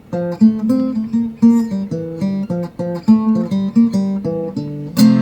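Restored 1930s SS Stewart acoustic guitar played fingerstyle, with single picked notes in a steady pattern that turns into louder strummed chords near the end. Its tone is very boomy.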